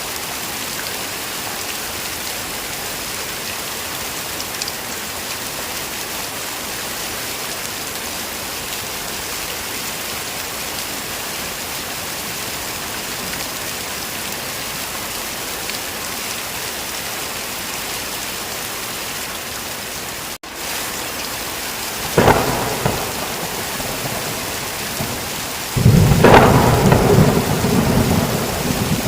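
Steady heavy rain. About two-thirds of the way in, the sound cuts out for an instant. Then thunder: a sharp crack, followed near the end by a long, loud rumble.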